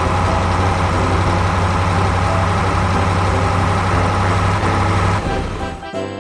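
Engine sound of a remote-control dump truck running steadily with a strong low hum, dropping away about five seconds in.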